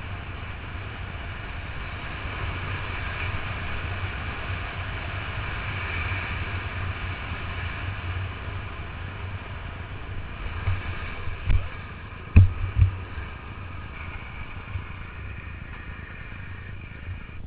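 Longboard wheels rolling steadily down pavement, a constant low rumble with road and wind noise. In the second half the board clacks over bumps several times, with two sharp knocks close together.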